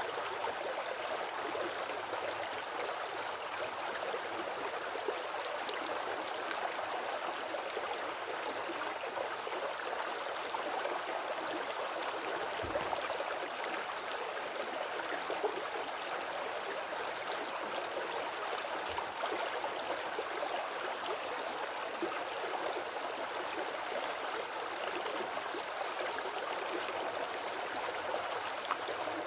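Woodland creek flowing, a steady rushing and gurgling of water.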